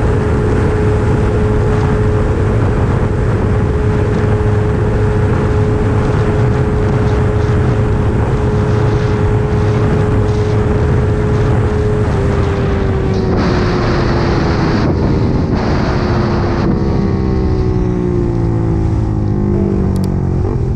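Small motorcycle engine running at a steady high pitch under wind rush, then winding slowly down in pitch through the second half as the bike eases off.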